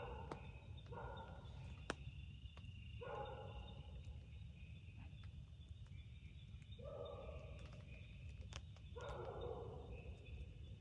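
Night forest ambience: a steady high insect chirring over a low rumble. Five short calls from an unseen animal come at irregular intervals, and a few sharp ticks are scattered through it.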